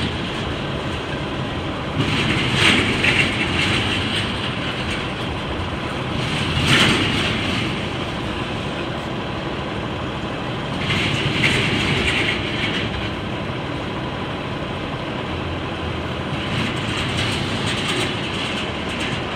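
Double-stack intermodal freight train rolling past: the steady rumble and clatter of container well cars on the rails, swelling louder and brighter several times.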